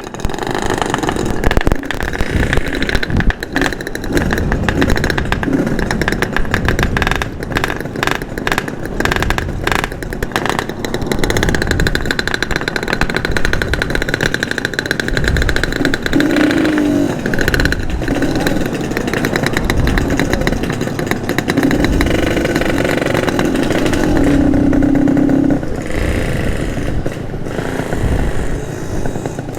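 Yamaha RX King two-stroke motorcycle engine running while being ridden, its exhaust note changing with the throttle.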